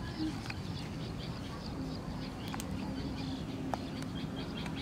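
Outdoor pond-side ambience: small birds chirping in quick repeated calls over a steady low background noise.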